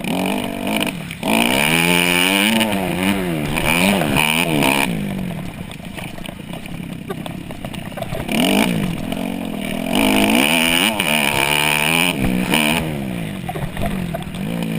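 Dirt bike engine during race riding, revving up and down over and over as the throttle opens and closes. There are two stretches of hard throttle, a little after the start and again past the middle, with an easier, quieter stretch between them.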